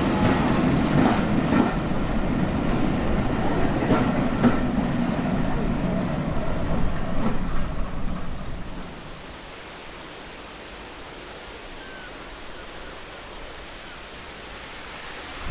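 A train running past on the line, its wheels clicking over the rail joints a few times, then fading away about eight or nine seconds in to a faint steady background hiss.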